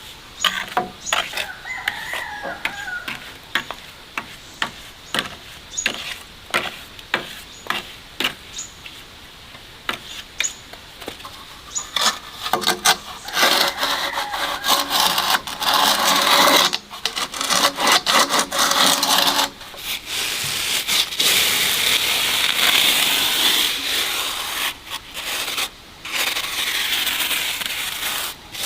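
Irregular sharp taps, roughly one or two a second, then, from about halfway through, long stretches of rough scraping or rasping broken by short pauses.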